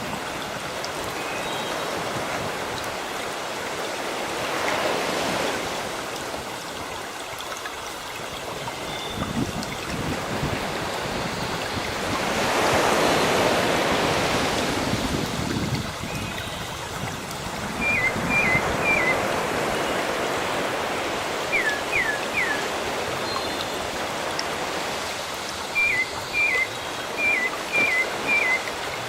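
Sea waves washing in and out, swelling loudest twice, with bird calls: short chirps in threes about two-thirds in, a few downward-sliding notes soon after, and another run of four or five chirps near the end.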